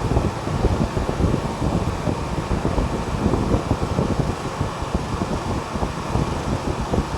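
Display chiller's condensing unit running steadily, compressor and condenser fan, during a refrigerant pump-down that runs until the pressure control cuts it off.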